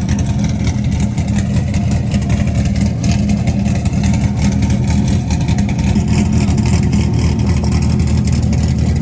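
A sports car's engine running loud and steady just after start-up, a deep even rumble with no big revs.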